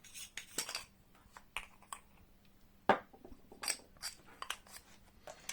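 Scattered small clicks and knocks of a flashlight being handled as its battery is taken out, the sharpest knock about three seconds in.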